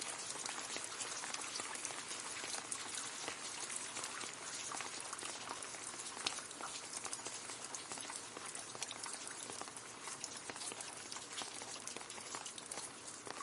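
Gentle rain falling on leaves: a steady patter of many small drops ticking on foliage.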